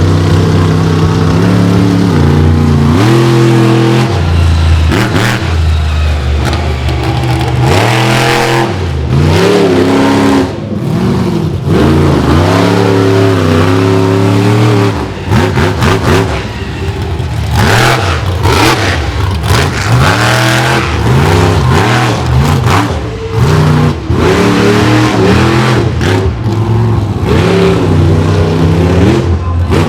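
Lumberjack monster truck's engine revving hard and repeatedly during a freestyle run. The pitch swings up and down over and over, and it drops off briefly several times as the throttle is lifted.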